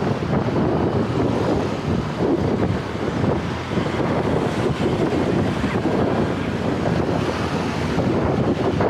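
Wind buffeting the microphone of a rider moving on a folding electric bike: a loud, steady rush of air noise with no clear single events.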